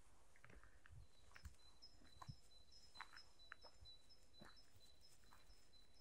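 Faint birdsong in the forest: thin, high notes repeated over and over, with soft footsteps on the ground at a slow walking pace.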